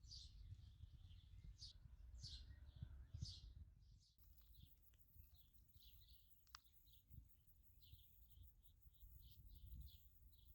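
Faint birds chirping: many short calls repeated throughout, over a low background rumble.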